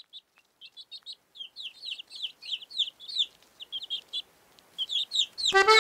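Small birds chirping: a quick, busy run of short, high, down-slurred chirps. Near the end, music with held notes comes in over them.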